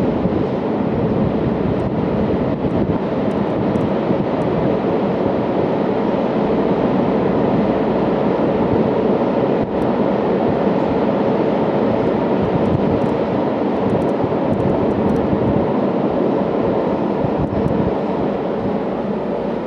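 Freight train of tank wagons rolling across a steel truss bridge: a loud, steady rolling noise with a few faint clicks.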